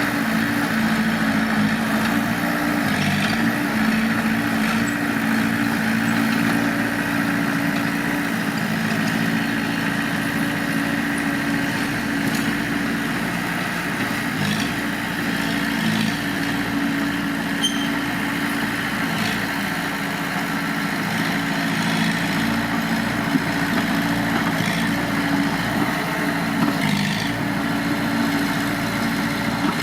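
Heavy diesel engine of earthmoving machinery running steadily near idle, its pitch shifting only slightly, with a few faint clanks.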